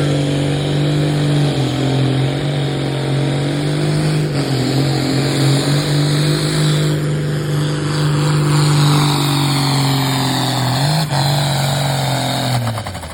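Pulling truck's engine held at full throttle as it drags the weight sled, a loud steady engine note with brief dips in pitch. Near the end the note wavers, then drops and dies away as the throttle comes off.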